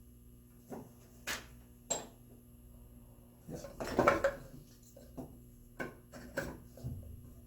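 Wooden pieces being handled and set down on a workbench: a string of sharp knocks and clunks, with a louder clatter about four seconds in.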